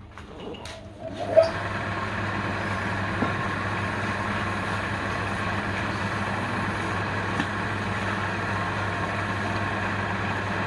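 A woodturning lathe winds up to speed with a rising whine, a sharp knock about a second and a half in, then runs steadily with a low hum.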